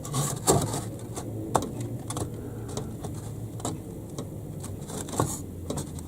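Irregular light knocks and clicks from handling and adjusting wooden baseboard sections and model railway track, over a steady low hum.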